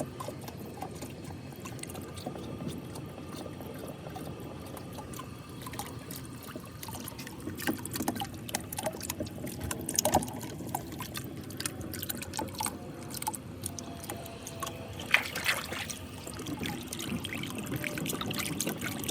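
Tap water pouring and trickling steadily into a marble run track, with scattered small clicks and splashes that grow busier near the end.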